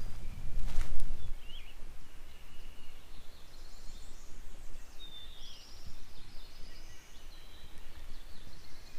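Wind rumbling on the microphone, with footsteps on the forest floor in the first second or so, then small birds chirping and trilling.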